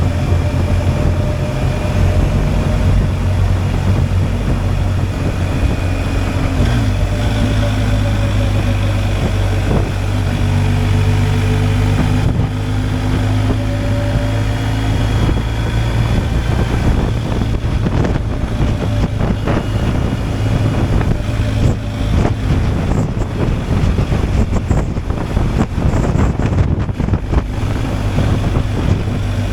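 BMW R 1250 GSA's boxer twin engine running steadily under way, its note shifting about seven seconds in. Wind buffets the microphone more in the second half.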